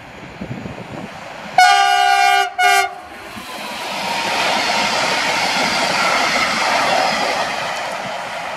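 A Koleje Mazowieckie EU47 electric locomotive sounds its horn twice, a blast of about a second followed by a short one. It then passes at speed hauling double-deck coaches, with a rush of wheels on rail that swells and then fades.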